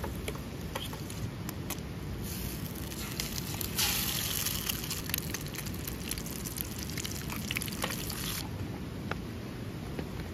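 A stream rushing steadily. From about two seconds in, a bright hiss with small crackles joins it, grows stronger and stops abruptly near the end.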